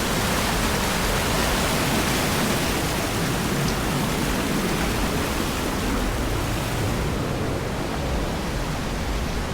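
Steady rushing roar of a waterfall, a wide even hiss of falling water; the hiss dulls slightly near the end.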